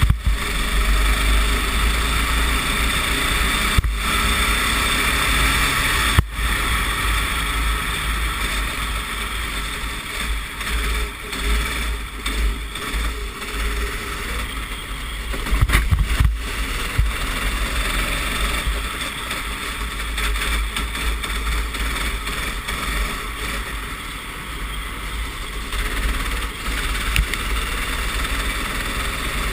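Racing kart engine running at speed, recorded by an onboard camera on a wet track, with heavy wind rumble on the microphone.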